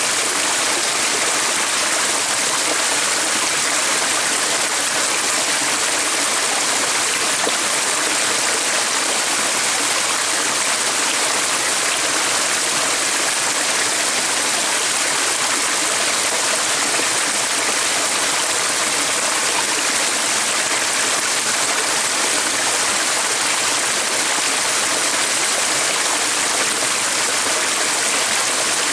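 Steady, unbroken rush of flowing water, even and unchanging throughout, with no birdsong standing out.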